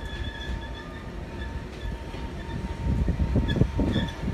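Train rolling along the track, heard from aboard: a low rumble over a faint steady high whine, growing louder with irregular knocks and clatter in the second half.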